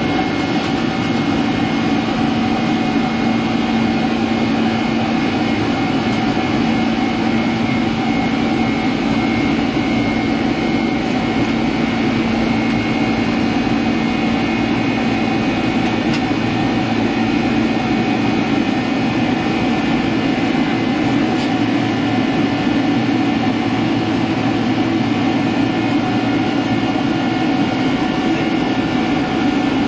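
Boeing 767-300ER jet engines and airflow heard inside the cabin: a loud, steady noise with several constant tones running through it.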